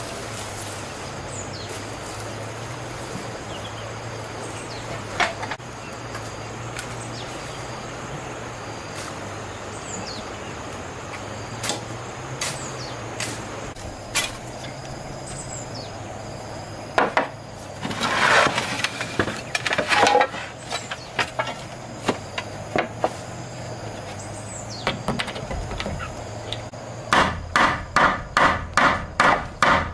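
Hammer striking wood: scattered knocks at first, then near the end a fast, even run of blows about three a second, over a steady low hum.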